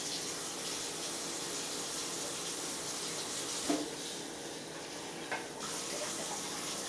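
Water running steadily from a kitchen tap, with two brief knocks about halfway through and again a little later.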